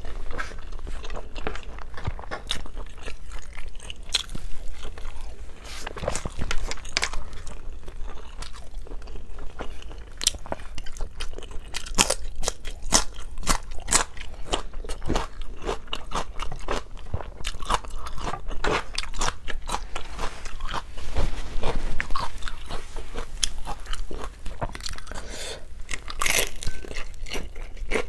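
A person chewing and biting food close to the microphone: a busy, irregular run of sharp mouth clicks and crunches.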